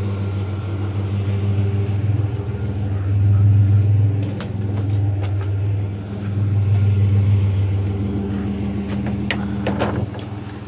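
Pickup truck engine running while driving, heard from inside the cab, its steady low hum swelling louder twice as it speeds up. A few light clicks sound near the middle and toward the end.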